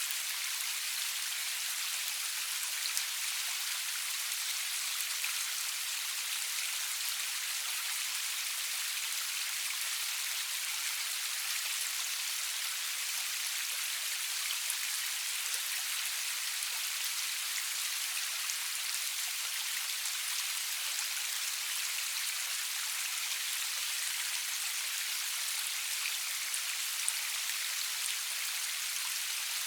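Steady rain falling, an even hiss of many drops with occasional single drop ticks standing out.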